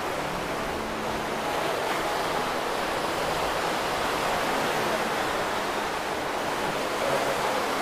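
Steady, even rushing of sea surf and wind in the open air.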